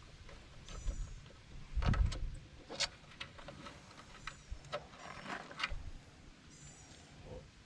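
Scattered clicks and knocks of hand tools and metal latch parts being handled while removing a Jeep's old hood latches, with a heavier thump about two seconds in.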